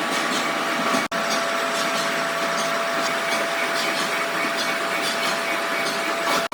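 Steady workshop machine noise with a faint high steady tone, broken off sharply about a second in and again at the end.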